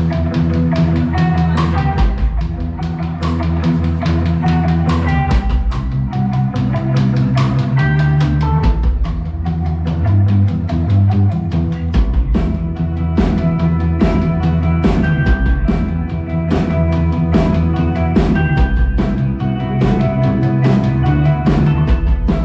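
Rock band playing an instrumental passage live: a drum kit keeps a steady beat under sustained chords and a moving low bass line.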